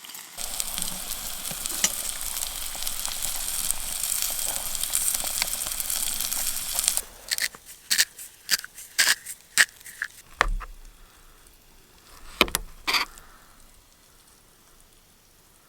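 Steak sizzling steadily on a grill plate over campfire coals. About seven seconds in the sizzle stops suddenly and a series of sharp clicks and knocks follows, with one dull thump, before it goes quiet.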